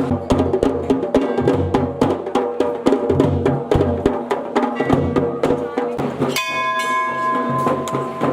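Traditional Garhwali dhol-damau drumming, a fast dense run of drum strokes. About three-quarters of the way through, a bell is struck and keeps ringing over the drums.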